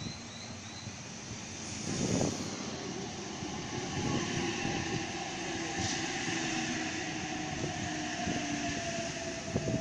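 Electric passenger train pulling in along the platform. Its wheels rumble and clatter on the rails, with a loud rise about two seconds in. Over this runs a steady whine that drops slightly in pitch as the train slows.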